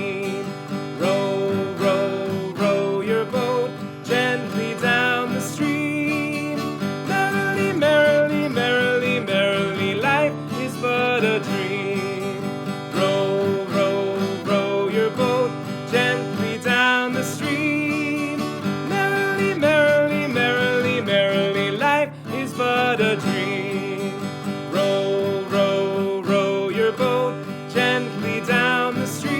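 Acoustic guitar music: a strummed accompaniment with a wavering melody line over it.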